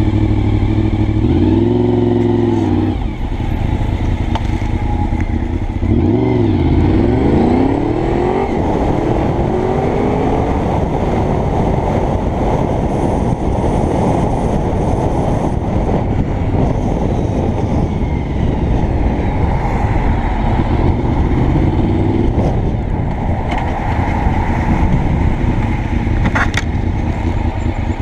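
Honda VFR750's V4 engine running under way, heard through heavy wind rush on a helmet-mounted microphone. The engine note rises and falls a few times in the first ten seconds as it revs through the gears, then holds steadier.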